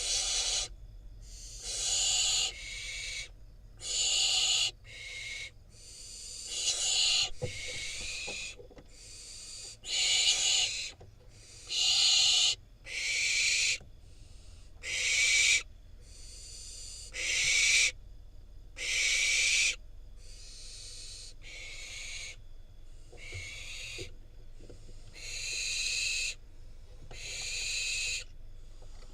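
Barn owl fledgling giving a long series of raspy, hissing begging calls. Each call lasts about half a second to a second and comes roughly every one to two seconds, loudest in the middle and softer toward the end.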